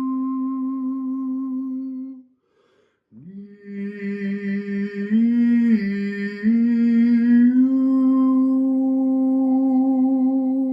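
A man humming a slow, wordless sound-healing melody of long held notes. He breaks for a breath about two seconds in, comes back in with a scoop up to the note, then moves in small steps between nearby pitches before settling on a long held tone.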